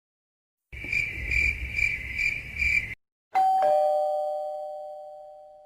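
Crickets chirping in five pulses over a faint hiss, then a two-tone ding-dong doorbell chime, a higher note then a lower one, ringing out and slowly fading.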